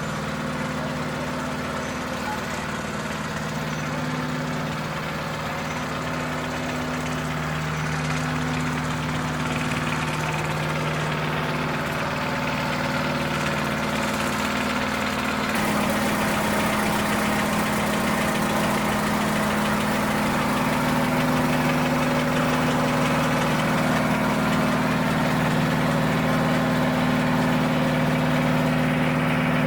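Vintage tractor engine idling steadily, its note changing and getting a little louder about halfway through.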